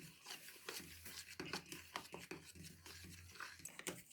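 Fork mixing egg into a butter and brown-sugar mixture in a bowl: quick, irregular light clicks and scrapes of the fork against the bowl.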